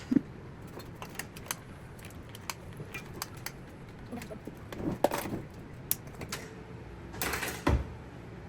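Utensil clicking and knocking against a frying pan with butter in it, scattered light clicks, with a short scrape ending in a louder knock near the end.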